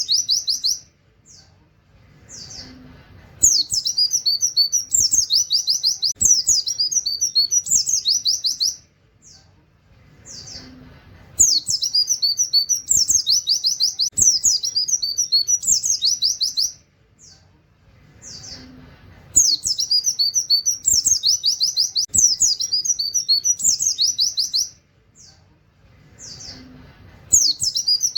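A pleci (white-eye) singing a rapid-fire 'tembakan' song with 'wit wit' calls and canary-like trills. It comes as fast, high runs of notes in bursts of about five seconds, separated by short pauses with a few single chirps, and the same phrase recurs about every eight seconds.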